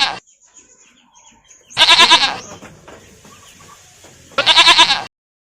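Goat bleating: a loud, wavering bleat trailing off at the start, then two more about two and a half seconds apart, the last one cut off suddenly.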